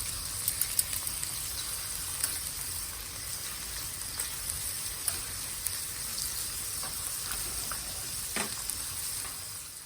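Food sizzling on the grill of a fire pit: a steady frying hiss with scattered crackles and pops.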